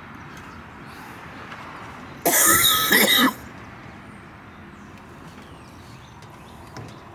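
A person clearing their throat once, loudly, for about a second, a couple of seconds in, over a faint steady hiss.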